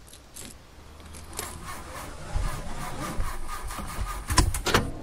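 Car engine being cranked on the ignition key and failing to catch, with a low uneven rumble that grows louder and two sharp knocks near the end. The driver takes the failure for a flat battery.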